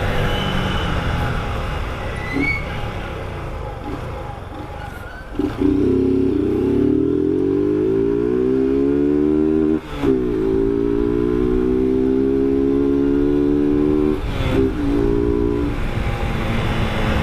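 Motorcycle engine under way, rising in pitch as it accelerates, dropping suddenly about ten seconds in at a gear change, then running steadily, with wind noise underneath.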